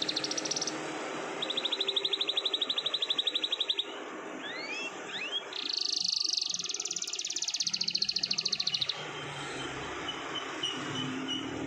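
Canary singing long, rapid rolling trills. There are three runs: a brief one at the start, one from about a second and a half to four seconds in, and a longer, higher one from about five and a half to nine seconds in, with a few short rising whistles between them.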